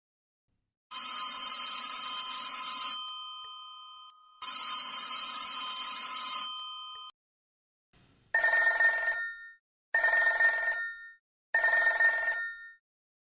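Electromechanical telephone bells ringing. First come two long rings of about two seconds each, each trailing off as the bell rings on. After a pause come three shorter rings from a bell of a different pitch.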